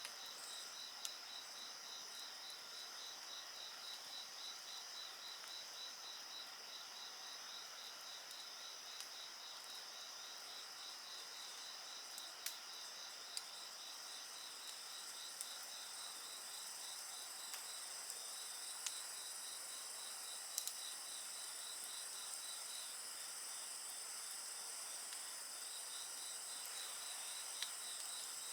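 Crickets and other insects calling: a fast, even pulsing chirp with steady high trills behind it. A wood campfire gives a few sharp crackles, loudest about 20 seconds in.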